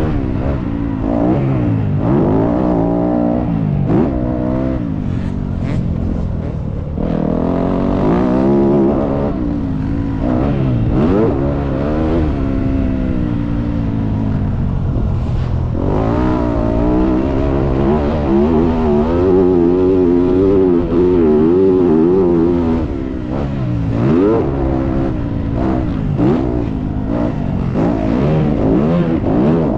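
Motocross dirt bike engine revving hard, the pitch climbing and dropping again and again every few seconds as the bike accelerates and backs off.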